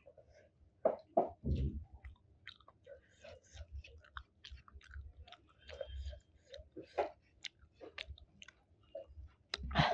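Close-miked chewing: a mouthful of rice and chicken curry chewed with many short wet clicks and lip smacks, a few louder ones about a second in and near the end.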